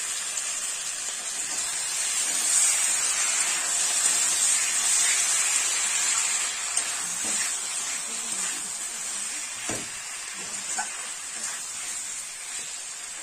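Spiced potato masala sizzling and hissing in a hot aluminium kadai after a little water has been added, with a metal spatula stirring and scraping. The hiss is loudest a few seconds in and slowly dies down, with a few light scrapes and clicks of the spatula later on.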